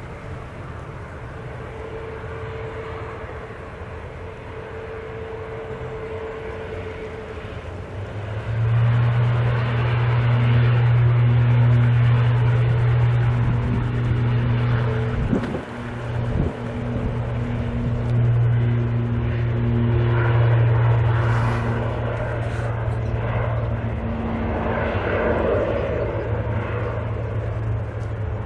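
Turboprop airliner's engines and propellers running with a steady low drone, growing much louder about a third of the way in. Two brief knocks near the middle.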